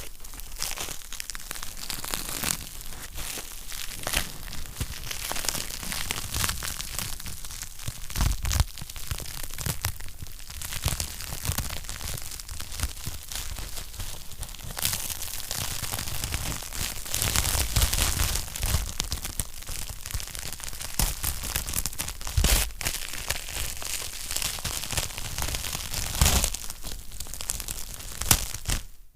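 Wood fire crackling in a fireplace: a continuous dense crackle of small snaps, with sharper, louder pops now and then, for example about 8 seconds in and near 22 and 26 seconds.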